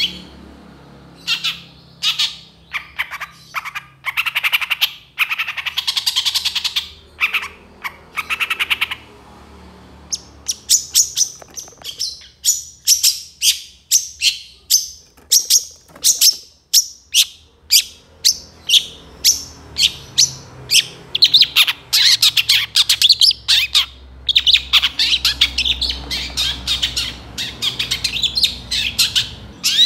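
Long-tailed shrike (cendet) singing a fast, loud song of quick runs of short, high notes, with a few brief pauses.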